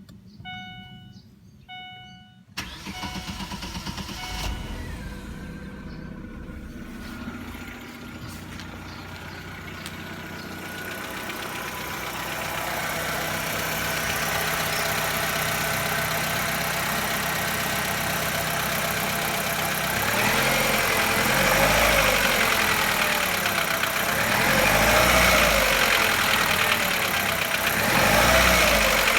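A few short electronic chimes, then a Chevrolet Lacetti 1.6 four-cylinder petrol engine starts and idles from cold with the knock it has when cold. It is revved briefly three times in the last third.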